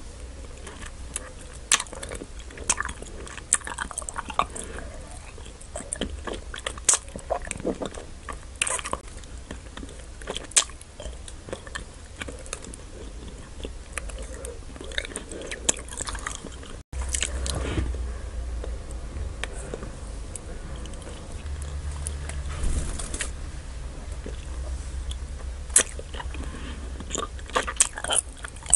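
Close-miked chewing and biting of Nik-L-Nip wax bottle candy: wet mouth clicks and crackles of chewy wax, irregular throughout. After a brief dropout about two-thirds through, a low rumble sits under the chewing.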